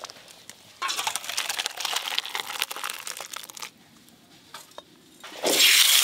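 A crackling hiss of cooking for about three seconds, then, about five and a half seconds in, chunks of elephant foot yam tipped into hot oil in a wok set off a loud, dense sizzle.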